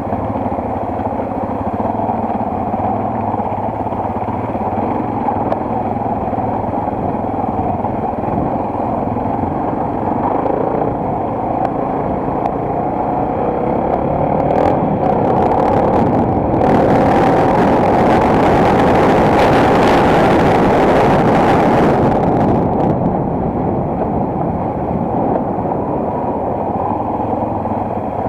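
Single-cylinder enduro motorcycle engine running steadily while riding. A louder rushing noise joins for about six seconds past the middle, then drops away.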